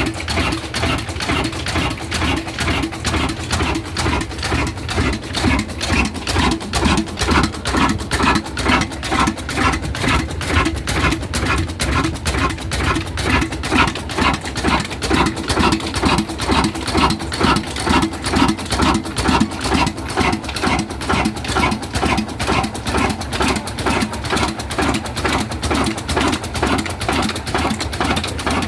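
Old diesel engine running steadily with a regular, even beat of about two pulses a second.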